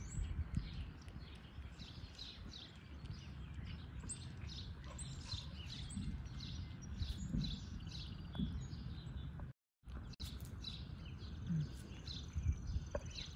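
Small birds chirping in the background, many short high downward chirps repeated over and over, over a low outdoor rumble. The sound drops out completely for a moment just before ten seconds in.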